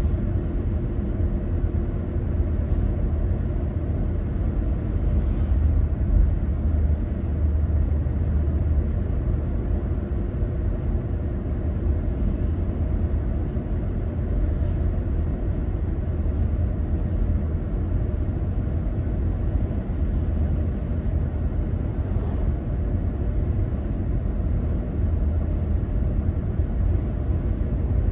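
Steady low rumble of a car driving, engine and road noise running evenly with no distinct events.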